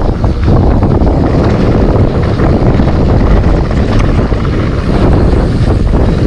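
Loud wind buffeting on the microphone of a camera carried on a mountain bike descent, mixed with the rumble and rattle of the tyres and bike over the dirt trail.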